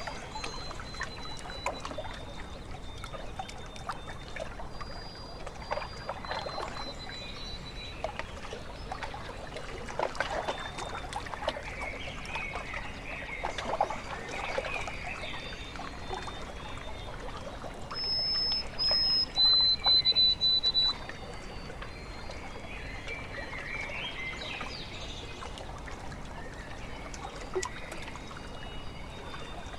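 Lake water lapping and trickling against the shore, with faint distant birdsong. About two-thirds of the way through, a bird gives a loud call of several held high whistled notes, the loudest sound here.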